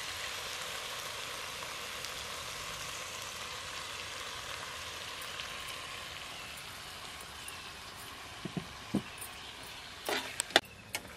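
Chicken masala sizzling in a pressure cooker as curd is poured in, the sizzle slowly dying down. Near the end a steel ladle knocks against the pot several times.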